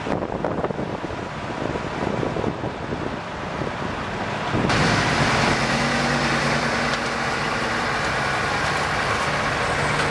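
Motor vehicle noise with wind on the microphone, changing abruptly about halfway through to a louder, steady engine hum with hiss.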